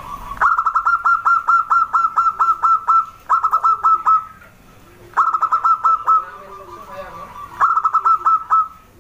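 Zebra dove (perkutut) singing: phrases of quick, clipped cooing notes in a rapid run, each ending on a brief held note, several times over.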